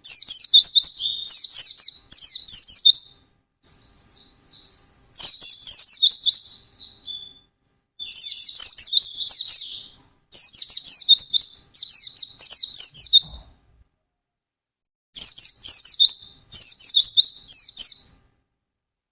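Pleci (white-eye, Zosterops) singing: fast, high twittering song phrases in bursts of one to three seconds separated by short pauses, with a longer pause in the middle and the song stopping shortly before the end.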